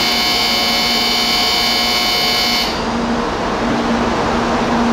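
Tokaido Shinkansen train running through the station: a loud, steady rush with several high whining tones, which cut off abruptly a little under three seconds in, leaving a steady noisy rush.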